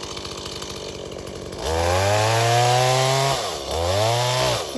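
Brand-new Stihl chainsaw idling, then revved up twice, its pitch rising and holding for a second or so each time before dropping back to idle.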